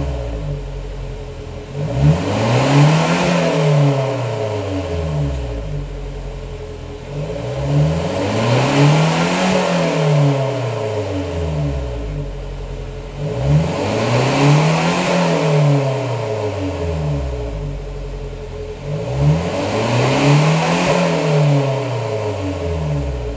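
1.5-litre four-cylinder engine of a CMC Veryca van, breathing through a catless header and a low-volume centre single-muffler exhaust, revved up and let fall back four times, each rev rising and dropping over a few seconds.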